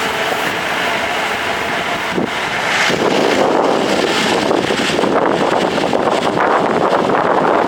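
Pickup jeep driving on a rough mountain dirt road: steady engine and road noise with wind on the microphone, growing louder about three seconds in.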